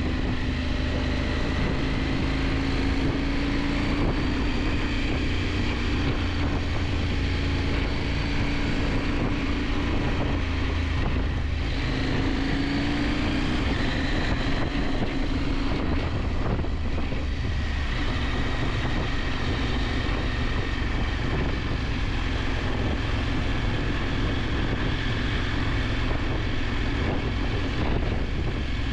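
KTM 890 Adventure's parallel-twin engine running under way, its pitch rising and falling gently with the throttle, over steady wind rush on the microphone.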